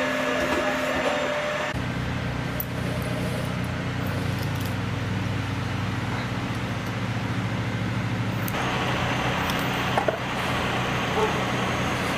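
A large engine on heavy machinery running at a steady speed, its sound changing abruptly about two seconds in and again about eight and a half seconds in.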